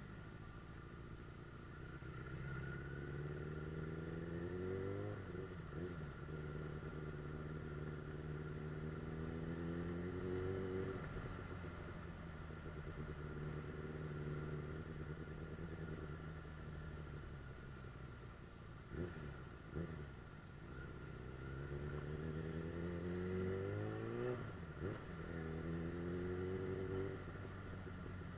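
Suzuki GSF 600 Bandit S's inline-four engine accelerating through the gears, its pitch climbing and dropping back sharply at each upshift. A steadier cruising stretch comes in the middle, and two short knocks fall a little after halfway.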